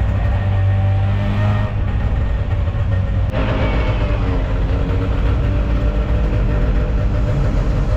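A car engine running while the car is on the move, with road noise. The sound changes abruptly about three seconds in.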